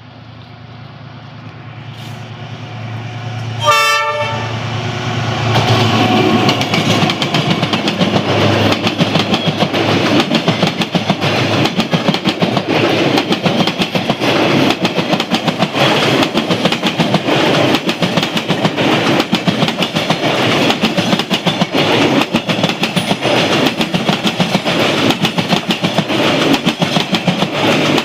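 A short blast on the horn of a D19E diesel-electric locomotive about four seconds in. Then the train's noise builds and it passes close by, its wheels clattering rapidly and steadily over the rail joints.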